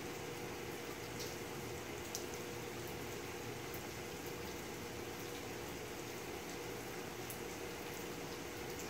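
Steady rain falling at night during a thunderstorm: an even hiss with a few sharp drip ticks, over a steady low hum.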